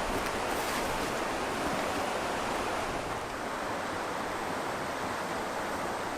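Steady rush of white water where a lake drains into a river over rapids, easing slightly about three seconds in.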